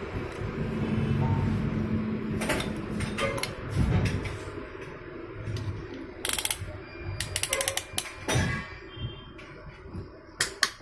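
Metal hand tools clicking and knocking against engine parts during engine assembly, with scattered sharp clinks and ratchet-like clicking, over a low steady hum in the first few seconds.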